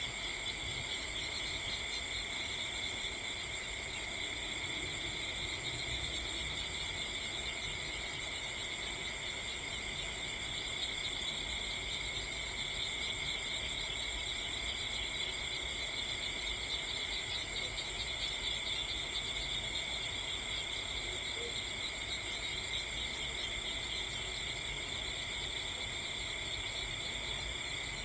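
Steady chorus of crickets and other insects: several unbroken high trills at different pitches.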